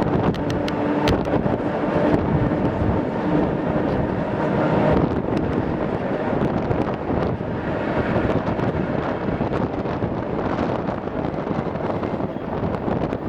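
ER2K electric train running: a steady rumble and rush of wheels and air, with a few sharp clicks about a second in.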